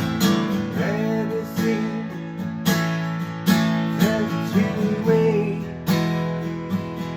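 Acoustic guitar strumming chords in a steady rhythm, about one stroke every 0.8 s, with a melody line over it that slides and bends between notes.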